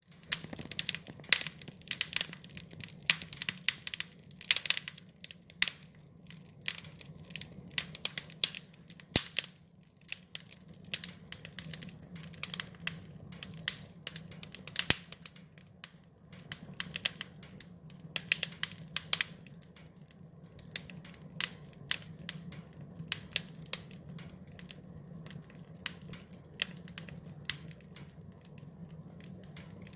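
Wood fire crackling: irregular sharp snaps and pops, a few much louder than the rest, over a low steady hum.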